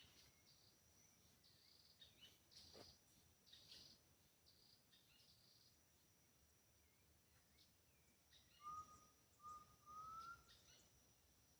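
Faint forest ambience: a steady high insect trill under scattered bird chirps. Near the end a bird gives three short whistled notes, the last rising slightly.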